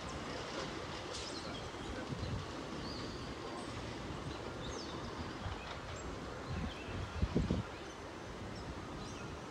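Steady outdoor background noise with scattered short, high bird chirps. A brief low rumbling burst, the loudest sound, comes about seven seconds in.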